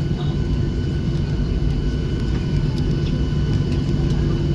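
Cabin noise of a Boeing 737-800 taxiing after landing, its CFM56-7B engines running at low thrust: a steady low rumble with faint steady whine tones above it.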